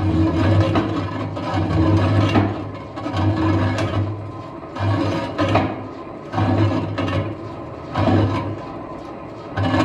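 Lathe turning a steel truck wheel rim, the cutting tool scraping the metal in uneven pulses about once a second, with a low hum under each cut.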